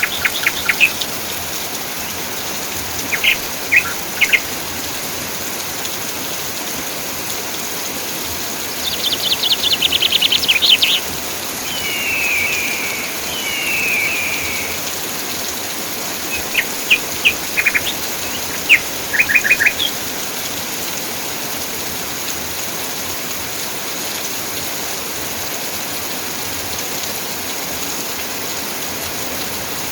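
Steady rain falling, with birds calling over it: scattered short chirps, a quick trill about nine seconds in, two falling whistled calls just after, and a few more chirps before the birds go quiet about two-thirds of the way through, leaving only the rain.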